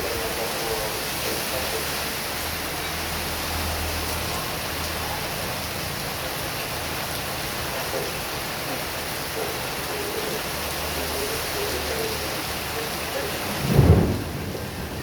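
Heavy rain pouring steadily, with the low rumble of strong wind swelling and fading, and one sudden low thump near the end.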